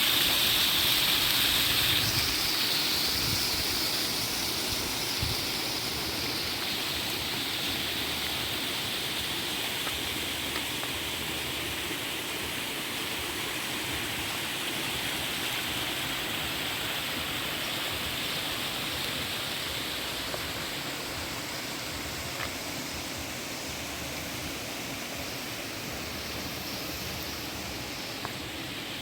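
Flowing water, a stream or small waterfall, rushing steadily and fading gradually as it recedes.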